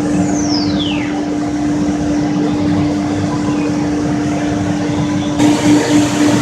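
CNC router running in a cabinet shop, with a steady hum. A high whine falls in pitch over the first second. About five seconds in, the sound turns harsher and more hissing, with a pulsing beat.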